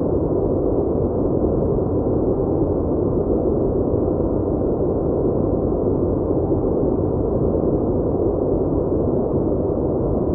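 A steady, unbroken low rumbling noise with no distinct events, dull and muffled with nothing bright on top.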